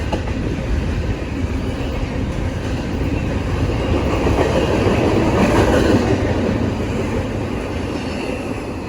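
Train rolling past, its wheels running on the rails; the noise grows to its loudest a little past halfway and then fades.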